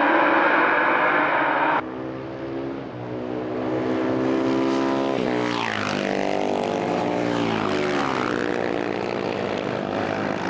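Classic racing motorcycles at speed on a circuit. A loud, close engine sound cuts off abruptly about two seconds in, then one or more bikes pass by, their engine notes sweeping up and down in pitch through gear changes and as they go past.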